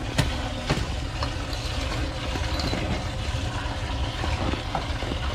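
Water running steadily into an automatic livestock water bowl as its float valve refills it, the float just freed from a stuck piece of grass. A couple of sharp clicks come in the first second.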